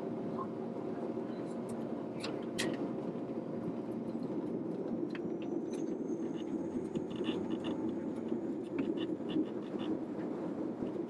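Airliner cabin noise before takeoff: a steady low hum from the engines and air system, with scattered small clicks and rattles and a thin high whine that rises about halfway through and then holds.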